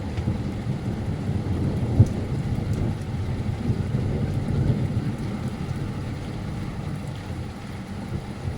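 Heavy rain falling through a thunderstorm, with a low rumble of thunder that swells about halfway through. A single sharp tap about two seconds in.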